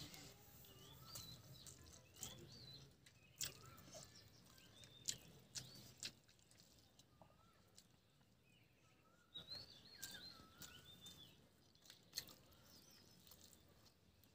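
Faint chirping of small birds, short rising and falling calls scattered throughout, with a few sharp clicks in between.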